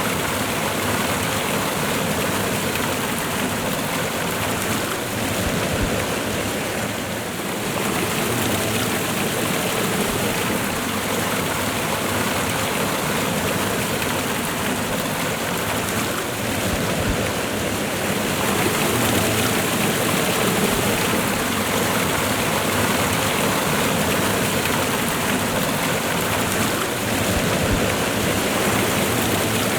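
Waterfall and fast-flowing river water, a steady rushing with no let-up.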